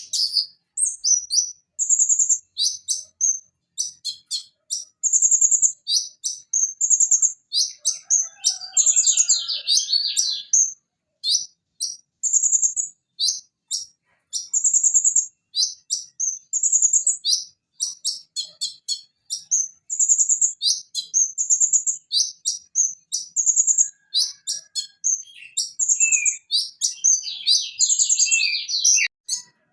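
Van Hasselt's sunbird (konin) singing a fast, high-pitched song of short sharp chips and trills, with rapid chattering runs a third of the way in and again near the end.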